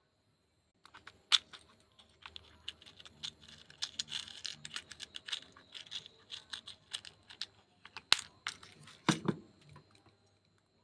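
Quick, irregular clicking and crinkling of small hard craft pieces being handled for a necklace, with a single low thump about nine seconds in.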